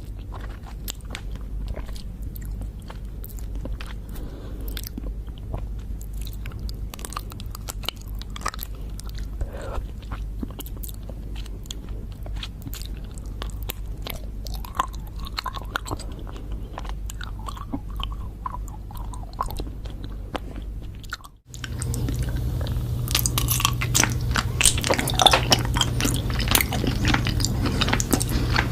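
Close-up biting and chewing of honeycomb, with many small irregular crunches and clicks from the wax comb. About 21 seconds in the sound drops out for a moment at a cut, then the chewing comes back louder over a steady low hum.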